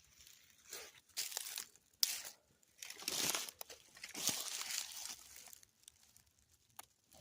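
A person moving on the dry forest floor: four or five crunching, rustling steps about a second apart, with a sharp click about two seconds in.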